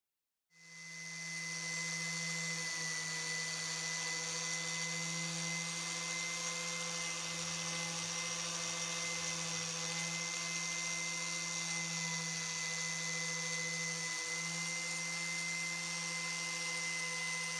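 Electric power tool motor running steadily at constant speed, with a hum and a high hiss. It fades in about half a second in.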